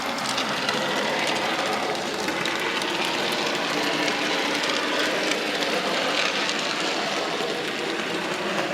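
Bachmann J94 0-6-0 saddle tank model locomotive running steadily along the model railway track: its low-geared coreless motor whirring and its wheels rolling on the rails in an even, continuous run.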